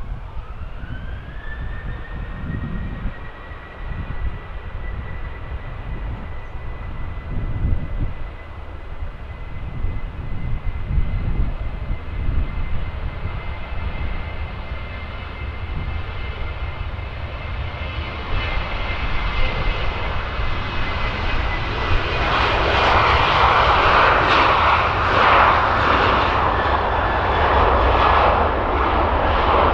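Boeing 737-800 jet engines (CFM56-7B) spooling up with a rising whine that settles into a steady high whine. Then a broad jet noise grows much louder from about two-thirds of the way through as the engines reach takeoff thrust.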